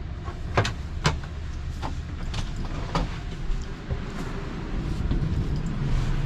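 An RV's interior door hardware being handled: about five sharp clicks and knocks in the first three seconds, over a steady low hum.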